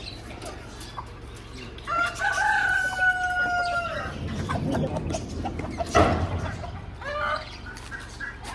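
A rooster crowing once, a long held call of about two seconds beginning about two seconds in, with hens clucking around it. A sharp knock sounds about six seconds in.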